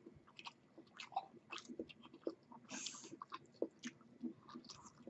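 A person chewing food close to the microphone, faint, with many small scattered wet clicks and smacks of the mouth.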